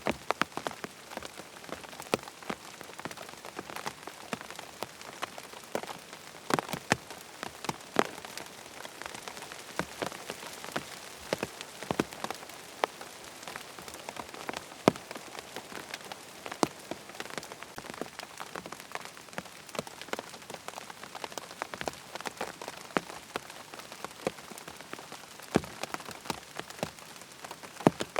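Steady rain falling on a tent, a continuous patter with many individual drops striking sharply and irregularly.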